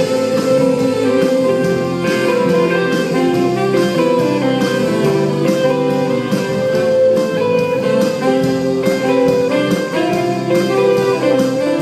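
Church band playing an instrumental break between sung parts of a worship song, with no singing.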